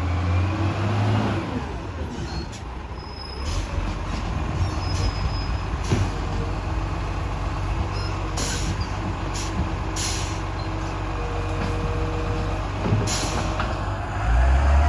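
Diesel garbage truck running, its engine revving up at the start and again near the end, with several short hisses of air in between.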